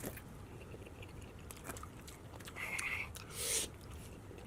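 Close-miked chewing of soft pan pizza: quiet wet mouth clicks and smacks, with a short high-pitched tone about two and a half seconds in and a brief breathy rush just after.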